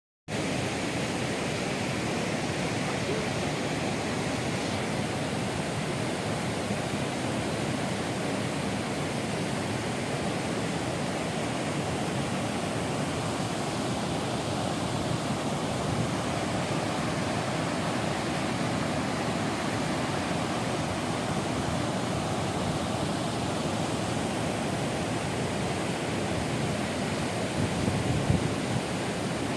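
Steady rush of falling water from a large waterfall, Hundru Falls: an even, unbroken noise that holds level throughout. A brief low thump comes near the end.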